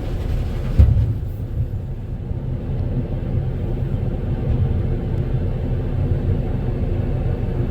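Volvo A30 articulated rock truck's diesel engine running steadily with a low rumble, with one sharp thump about a second in.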